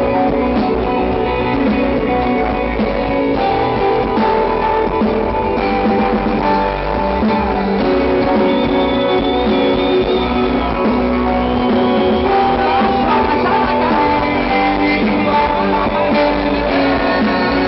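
Rock band playing an instrumental passage without vocals, led by guitars, with held notes and a steady beat.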